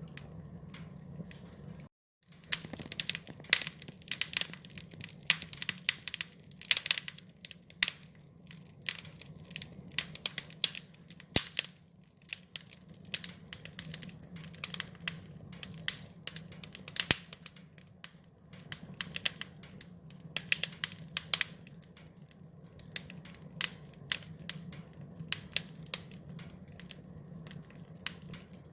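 Wood fire crackling, with frequent irregular sharp pops and snaps over a steady low rumble. The sound cuts out for a moment about two seconds in.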